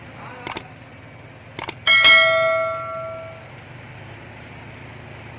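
A few light clicks, then a single sharp metallic strike about two seconds in that rings with a clear bell-like tone and fades over about a second and a half.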